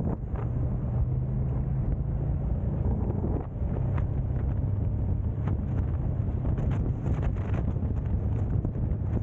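Car driving: a steady low engine and road rumble with a constant low hum, wind buffeting the microphone, and scattered light knocks.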